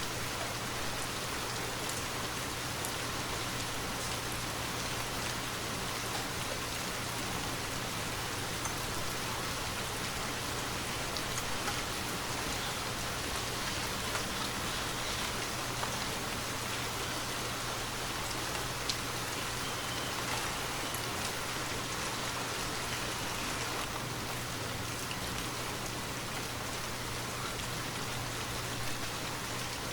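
Steady rainfall, an even hiss of rain with scattered single drops ticking through it and one sharper drop a little past the middle.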